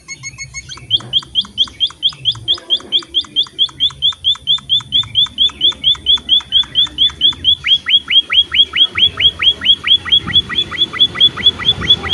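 A small finch of the munia kind (emprit) calling in a rapid series of short, sharp, high notes, about five a second, that keep on through the whole stretch and grow slightly louder. Just before the series, a brief pulsing, pitched note.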